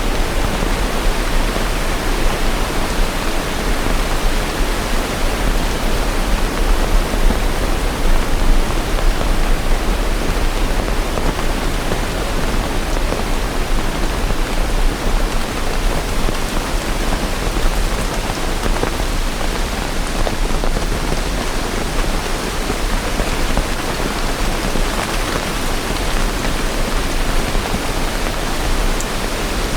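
Steady rain falling, a dense even hiss of countless drops with no thunder.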